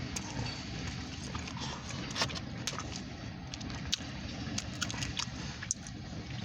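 Freight train rolling past: a steady low rumble with scattered sharp clicks and clanks from the wheels and cars.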